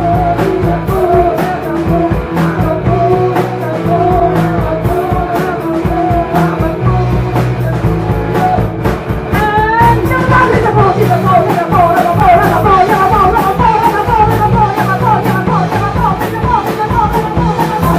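Rock band playing live, loud and steady with bass and drums. About halfway through a quick rising slide leads into a run of fast, wavering lead notes that carries on to the end.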